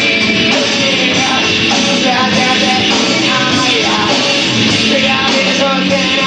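Rock band playing live: a loud, dense, continuous passage with no lyrics sung.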